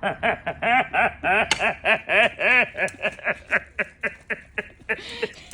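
A person laughing hard at a joke, a long string of rapid rising-and-falling 'ha' bursts, about four or five a second, that tails off toward the end.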